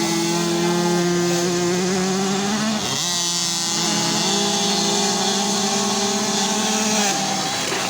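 Motocross motorcycle engines running at high revs, their pitch holding, then dipping and climbing again about three seconds in, with another change near the end.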